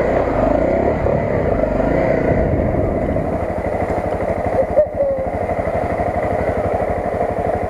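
Honda CRF250 dirt bike's single-cylinder four-stroke engine running. Its revs shift in the first second, then settle to a steady low-speed beat.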